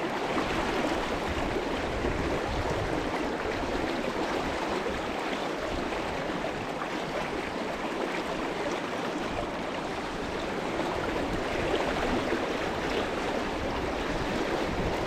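A river flowing, a steady continuous rush of water.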